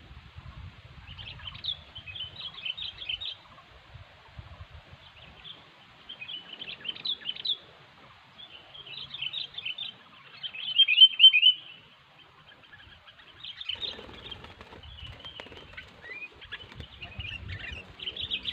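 Sooty-headed bulbuls (kutilang) chirping in short bursts of quick notes. The phrases come every few seconds, and the loudest is about eleven seconds in.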